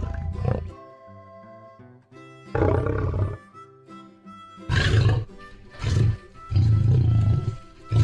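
Lion roars, about five in a row, each lasting up to a second, over steady background music.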